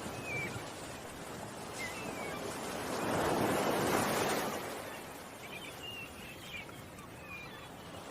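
Ocean waves washing onto a shore, one wave swelling up and fading away in the middle, with small birds chirping briefly several times.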